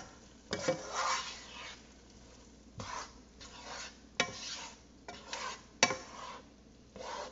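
Risotto of arborio rice being stirred in a pot: a utensil scraping through the rice in irregular strokes, with a few sharp knocks against the pan.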